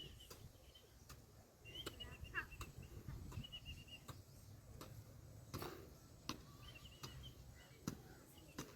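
Faint bird calls: short, high chirping phrases that come and go several times. Scattered light clicks and a low rumble run underneath.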